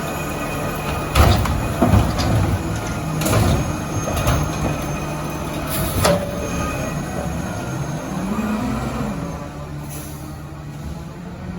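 Diesel Autocar ACX garbage truck running, with a steady engine hum and several sharp metal clanks and bangs in the first six seconds. The engine pitch rises and falls briefly near the end.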